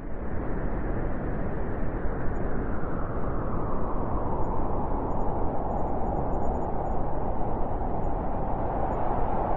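Blizzard wind blowing steadily, with a howling tone that grows stronger a few seconds in.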